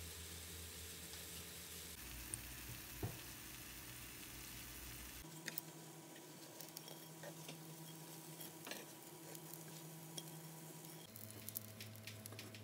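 Fish cakes frying in oil: a steady sizzle with scattered small pops and crackles.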